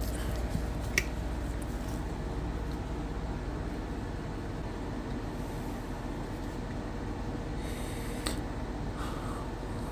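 Steady mechanical hum like a fan running, with two sharp clicks: one about a second in and one near the end.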